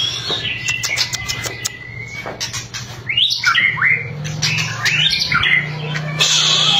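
White-rumped shama singing. It starts with a held whistle and a quick run of dry clicking rattles (its 'kretekan'), then from about three seconds in gives a string of varied, swooping whistled phrases.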